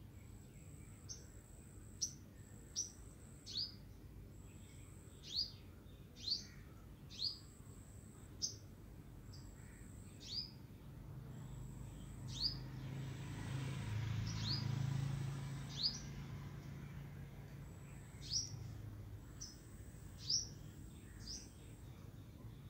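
A bird calling repeatedly: short, sharp chirps that slide downward in pitch, coming every second or two at an uneven pace, many joined to a thin, even high note. A low rumble swells up in the middle and fades away.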